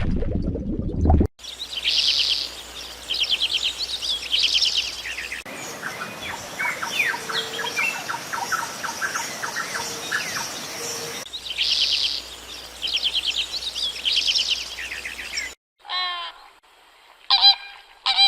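Songbirds singing in short back-to-back clips: fast high trills, then a run of scattered chirps, then the trills again. A low animal sound cuts off about a second in, and near the end short honking fowl calls begin.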